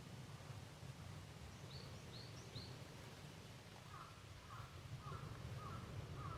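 Forest birds calling faintly over a low outdoor rumble: three short, high notes about two seconds in, then from about four seconds a bird repeating a lower call roughly twice a second.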